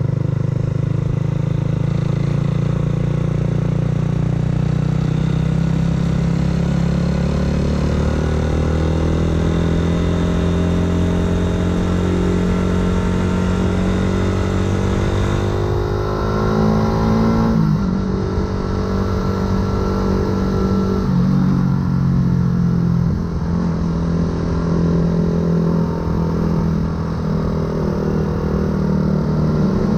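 Yamaha R125 single-cylinder four-stroke motorcycle engine through an aftermarket full exhaust, riding under load. The revs climb steadily through a long pull, drop sharply at a gear change about 17 seconds in, then run on at steadier revs with small rises and dips.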